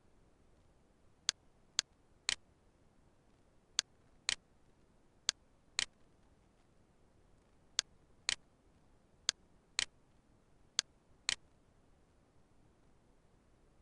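Computer mouse buttons clicking: thirteen sharp clicks, mostly in pairs about half a second apart, with pauses of a second or more between the pairs.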